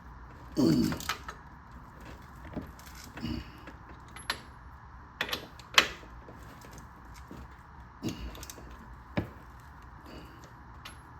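Metal brake parts and hand tools clinking and knocking as a brake is fitted at the wheel. There is a scrape about half a second in, then scattered sharp clicks and knocks, the loudest near the middle.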